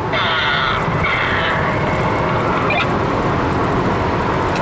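Mercedes-Benz C240's 2.6-litre V6 pulling hard at high revs under full-throttle acceleration, heard from inside the cabin with road and wind noise. Two short high hisses sound in the first second and a half.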